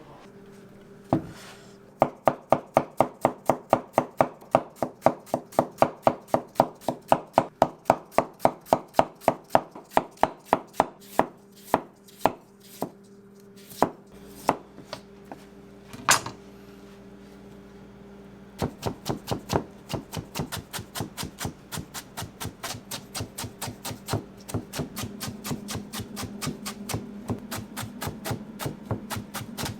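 Rapid, even strikes on a cutting board during pork cutlet preparation, about four a second. They break off about a third of the way in, with a few single knocks, then resume more softly and a little faster, over a steady low hum.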